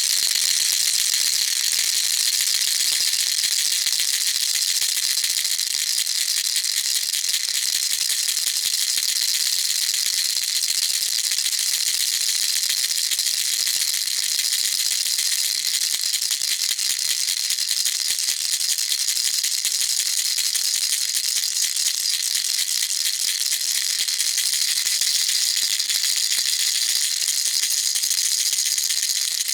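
Baby rattle shaken without pause: a dense, steady, high-pitched rattling with no breaks.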